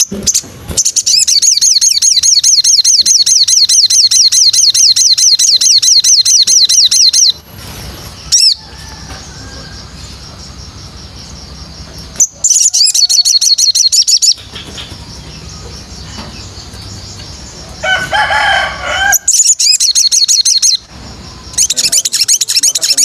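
A songbird singing very fast, high trills in several bouts: a long one of about six seconds at the start, shorter ones in the middle and near the end, with a lower warbling phrase between them. This is recorded song played as training material for white-rumped shamas.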